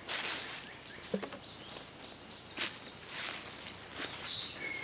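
Steady high-pitched drone of insects chirring in the woods, with a few footsteps in the brush and a short bird chirp near the end.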